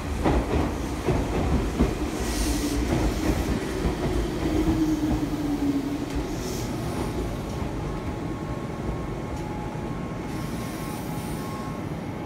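Meitetsu 1000-series Panorama Super electric train running into the station, wheels clacking over rail joints in the first couple of seconds. A tone from the train slowly falls in pitch through the middle, then it settles to a steady rumble.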